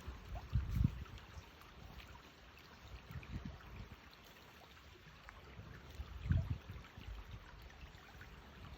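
Stream water flowing and trickling in a steady hiss, with three brief low rumbles.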